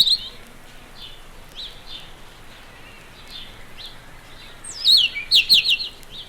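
Songbirds singing: faint short high notes repeat about every half second, and about five seconds in a louder bird gives a phrase of sweeping notes that runs into a quick series of notes.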